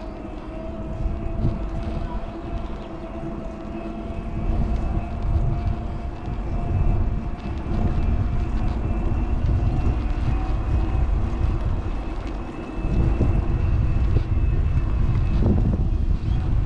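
Wind rushing and buffeting over a GoPro's microphone on a moving electric bike, with a steady faint whine running under it.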